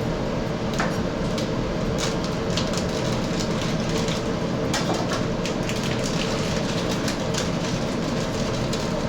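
Steady kitchen hum with a faint constant tone, with scattered crackles and pops from the pot cooking on the stove.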